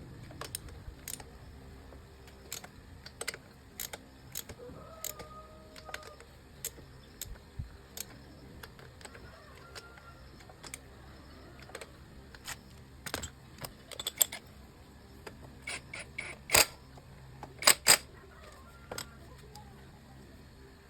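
Hand tools and small metal engine parts clicking and clinking as they are handled during a motorbike top-end rebuild: irregular taps, with a few louder knocks about two-thirds of the way through.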